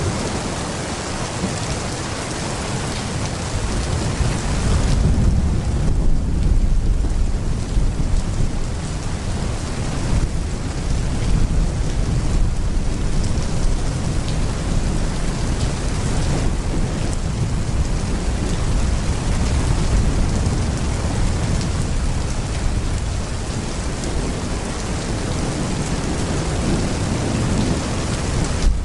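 Heavy rain pouring steadily, with low rolling thunder rumbling in about four seconds in and carrying on to the end.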